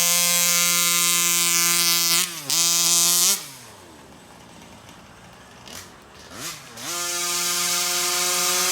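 Rovan FT360R's stock 36cc two-stroke engine held at full throttle at a steady pitch, dipping briefly about two seconds in, then cut off just after three seconds with the revs falling away. After a quieter stretch with two short throttle blips, it goes back to steady full throttle near the end. The driver finds this engine down on power.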